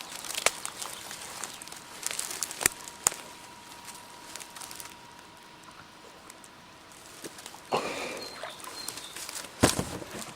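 Rustling and handling noises with a few sharp clicks, as someone moves through vegetation at the water's edge, with a faint steady tone for a few seconds in the middle.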